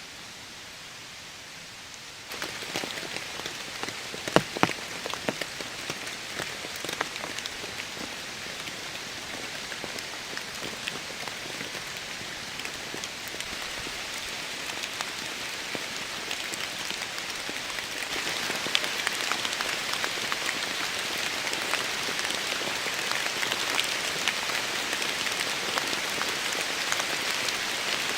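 Heavy rain falling, with many individual drops ticking and a few loud drop hits. It starts suddenly about two seconds in, out of a steady soft hiss, and grows heavier past the middle.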